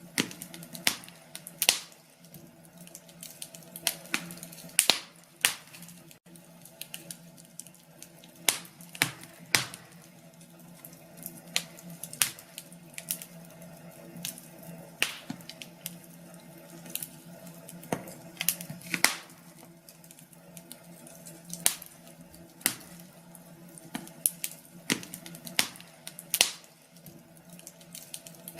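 Wood fire crackling in a fireplace: irregular sharp pops and snaps, a few of them loud, over a faint steady hum.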